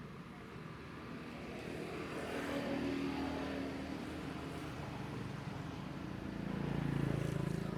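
Motor vehicles passing by, one after another. Each engine note swells as it approaches and fades as it goes, the second lower-pitched and peaking near the end.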